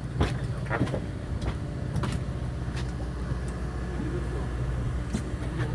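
Fishing boat's engine running steadily, a low hum, with scattered small clicks and knocks on deck.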